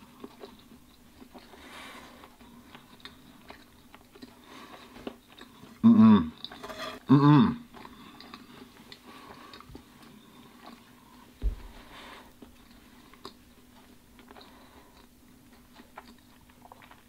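Close-up chewing and mouth noises of a person eating leftover sushi. Two short vocal noises come about six and seven seconds in, and a single low thump near the middle.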